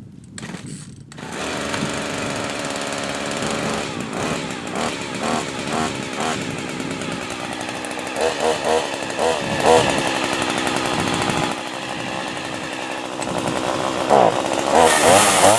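Small two-stroke chainsaw engine running, revved up several times, with the revs climbing again near the end.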